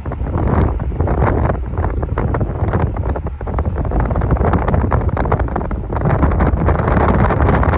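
Wind buffeting the microphone outdoors: a loud, steady rumbling rush with fluttering gusts.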